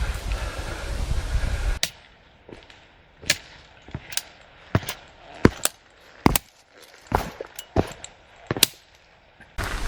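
Wind buffeting the microphone, cutting off about two seconds in; then a run of sharp, irregular taps and clicks, roughly one a second, of a hiker walking on a rocky trail. Wind noise comes back near the end.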